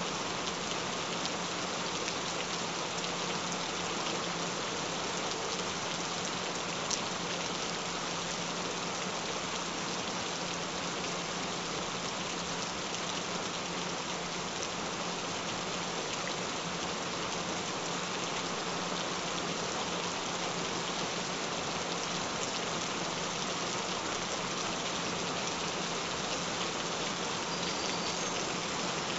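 Steady rain falling: an even hiss of many drops that does not change, with a faint low steady tone underneath.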